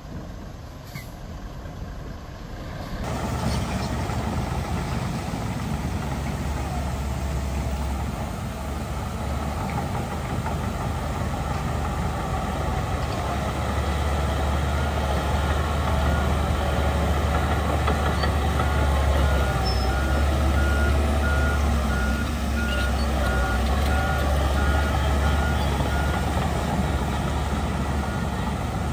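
Heavy diesel earthmoving machinery running with a steady low rumble. A reversing alarm beeps at a steady pace from about halfway through to near the end.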